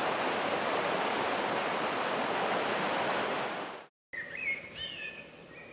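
Rushing river water, a steady dense noise that fades away and cuts off about four seconds in. After the cut, a much quieter outdoor stretch with a few small bird chirps.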